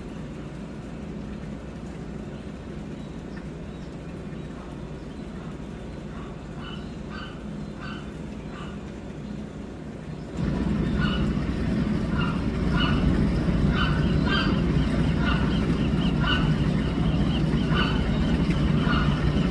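Short, repeated gull calls over a steady low rumble. The rumble gets clearly louder about ten seconds in, and the calls come more often after that.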